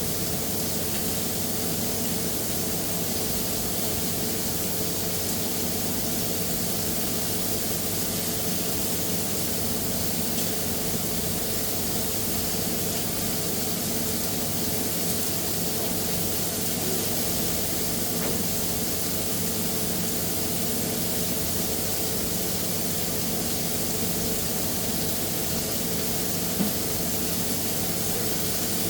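Steady hiss over a low, even hum of fast-food kitchen equipment running, with one small click near the end.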